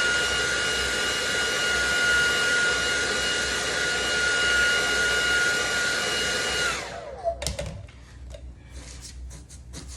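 Hand-held electric blower, a hair-dryer-type motor, running steadily with a whine, then switched off about seven seconds in and winding down. Scattered light rubbing and scratching of fingers working glue residue off the fridge surface follow.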